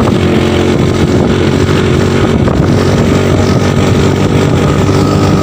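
A vehicle engine running loudly and steadily.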